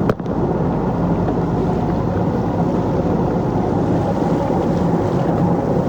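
Tour boat's engine running steadily under way, with wind noise on the microphone. There is a brief dropout with a click right at the start.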